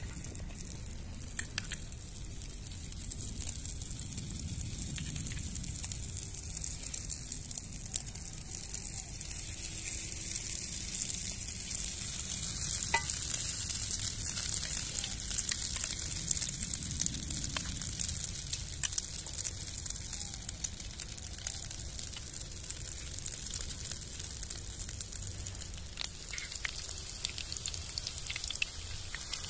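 Food frying in hot fat in a pan, a steady sizzle with fine crackling, stirred now and then.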